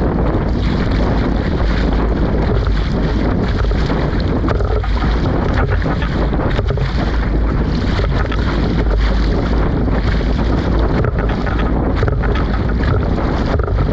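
Strong wind buffeting the microphone, a loud, steady low rumble with constant gusts and crackles, over choppy lake water around a small inflatable boat.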